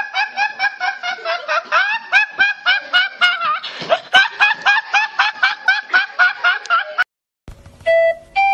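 A teenage boy laughing hard in rapid, high-pitched, evenly repeated bursts, about four a second. The laughing cuts off suddenly about seven seconds in, and a short electronic organ or keyboard tune starts just after.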